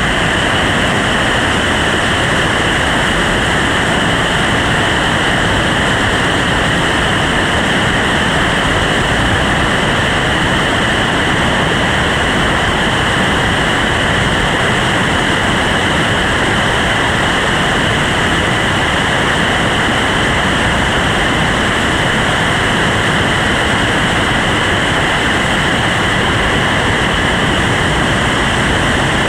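Steady, loud rushing of whitewater from a river rapid running at high water.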